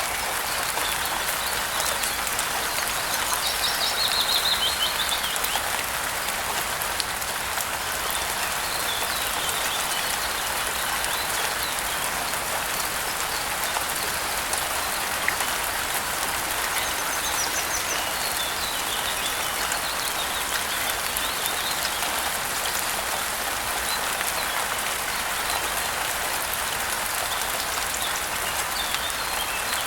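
Steady rain falling, with small birds chirping now and then over it; the clearest run of chirps comes about four seconds in.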